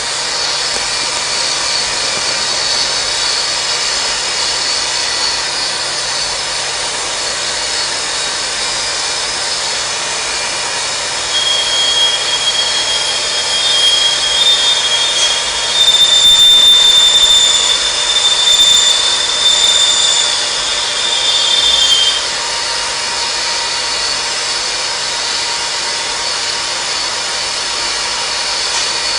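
CNC machining center running with a steady high-pitched mechanical whine. About eleven seconds in, a louder high ringing tone comes in over it, grows stronger and cuts off sharply about half a minute's third later, near twenty-two seconds in.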